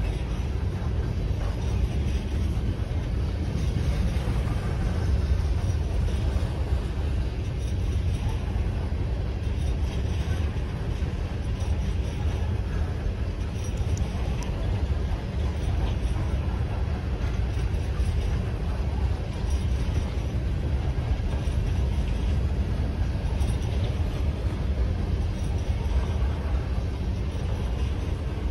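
An empty coal train of hopper cars rolls steadily past: a constant low rumble of steel wheels on the rails, with faint scattered clicks.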